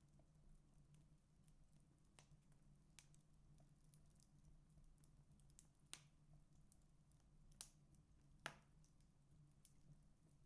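Burning firewood in a fireplace crackling quietly: scattered sharp pops a second or two apart, over a faint steady low hum.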